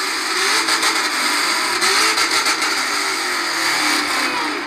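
A car engine revving loudly, its pitch wavering up and down throughout.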